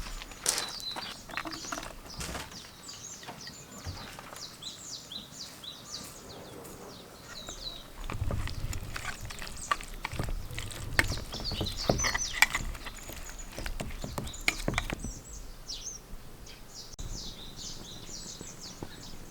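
Small birds chirping in quick runs of short falling notes, over intermittent knocks and handling clatter, with a low rumble in the middle stretch.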